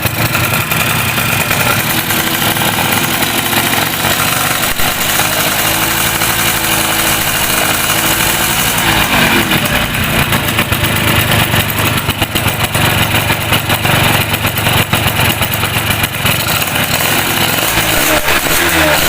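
Freshly rebuilt Yamaha F1ZR two-stroke single-cylinder motorcycle engine running after assembly, mostly idling, with the revs rising and falling briefly about nine seconds in and again near the end.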